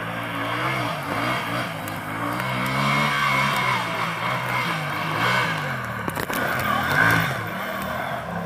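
Tractor fitted with a Yamaha engine, revving up and down several times, its pitch rising and falling in repeated swells.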